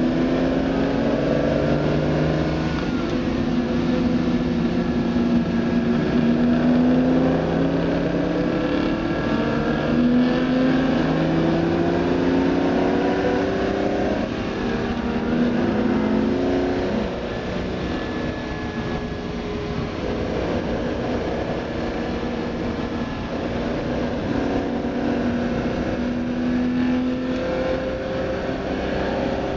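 Ferrari 250 GTO's 3-litre V12 engine pulling hard at track speed, heard from inside the open cockpit. It rises in pitch through the gears and drops back at each shift, with wind and road noise under it.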